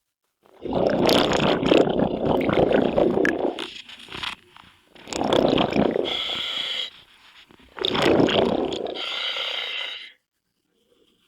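Scuba diver's breathing underwater: air bubbling out of the regulator in three long rushes of a few seconds each, with short pauses between them.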